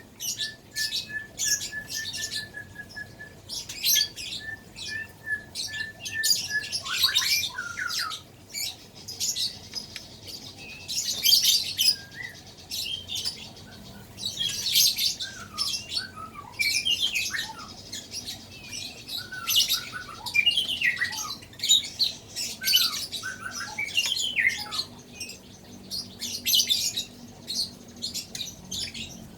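White-rumped shama chick begging while being hand-fed: repeated harsh, raspy begging calls throughout, with an even run of short peeps for the first six seconds or so and short falling chirps after.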